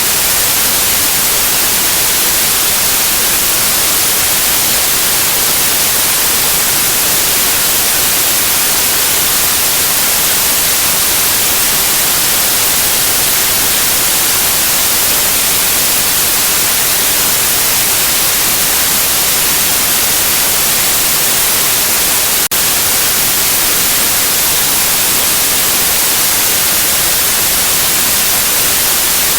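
Steady white noise, an even hiss that is brightest in the highs, with a momentary dropout about 22 seconds in.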